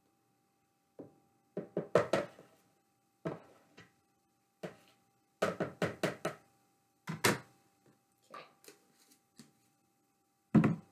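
A utensil knocking and clattering against a mixing bowl and container in irregular groups of sharp taps while minced garlic is spooned in, over a faint steady hum.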